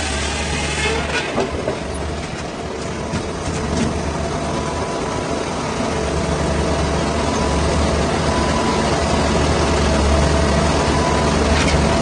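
Engine of heavy logging or sawmill machinery running steadily with a low hum, with a few clicks and knocks in the first few seconds.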